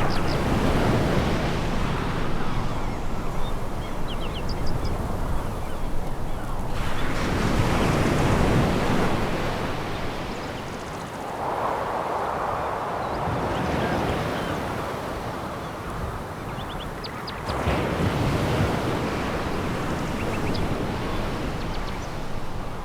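Sea waves breaking on a pebble beach: three surges about seven and ten seconds apart, with a softer hiss between them and a few faint, short high clicks now and then.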